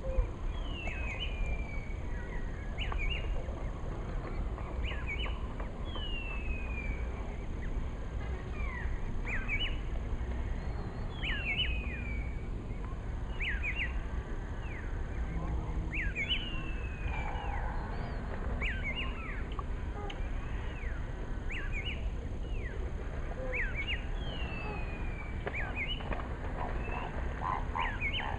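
A bird calling over and over in the background, short clear whistles, some falling in pitch and some quick double notes, about one every second or two, over a steady low rumble.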